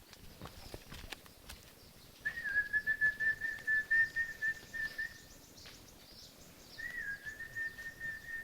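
A high whistled call, held at one pitch with a fast flutter for about three seconds, then again for a shorter stretch near the end. It sounds over faint outdoor background with scattered light clicks.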